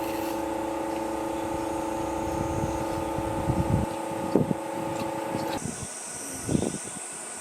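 A steady machine hum, running at a few fixed pitches over a low rumble, cuts off abruptly about five and a half seconds in. A few knocks and handling sounds come in the middle and just after it stops.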